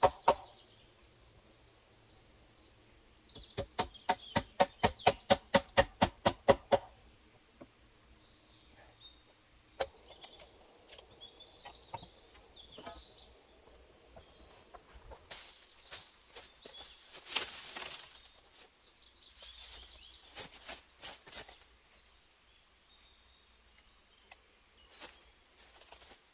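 Rapid, even knocking, about four strikes a second for about three seconds, from a hand tool striking during shelter construction. After it come faint bird chirps and scattered rustling and scraping.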